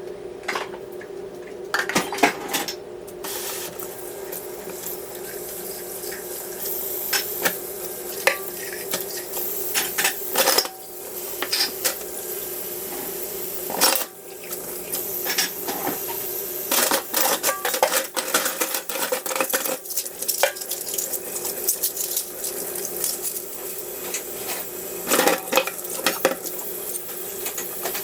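Dishes and cutlery clinking and clattering, many irregular sharp knocks, over a steady hum.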